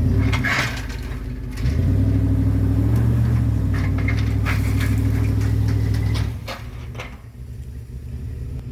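1994 GMC Yukon's engine working hard under load as the plow blade pushes into trees, rising in level about two seconds in and easing off past the six-second mark. Scattered sharp cracks and snaps sound over it.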